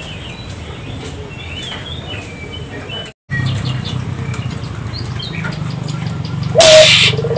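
Faint chirps of small birds over a steady low hum, with a brief dropout about three seconds in. Near the end, a loud harsh burst leads into the low coo of a Barbary dove (burung puter).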